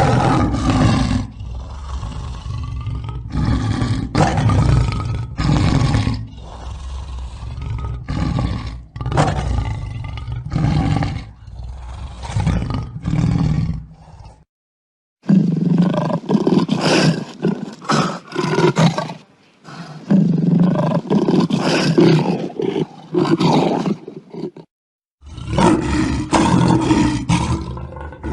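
Lion roaring: a run of deep roars and grunts, coming in repeated pulses. It is broken twice by a brief silence where separate recordings are joined.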